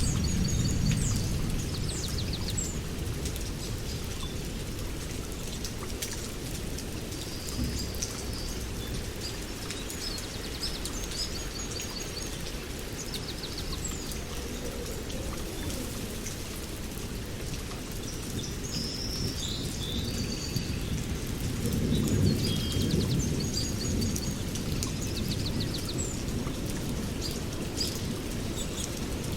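Several songbirds chirping and trilling in short repeated phrases over a steady low outdoor rumble, which swells for a few seconds about three-quarters of the way through.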